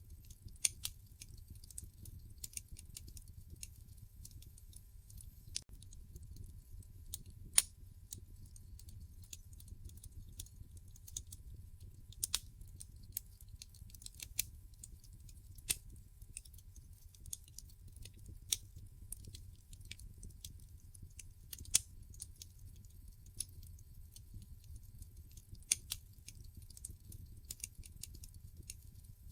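Log fire in a fireplace crackling: irregular sharp pops and snaps, a few louder than the rest, over a steady low rumble.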